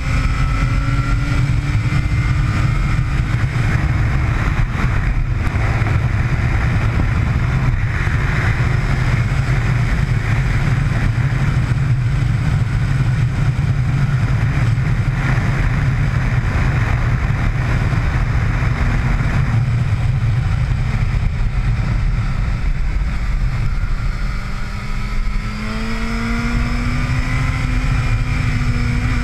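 Motorcycle engine heard on board at track speed under a heavy low rush of wind. The engine note glides down near the start, then rises and falls again in the last few seconds.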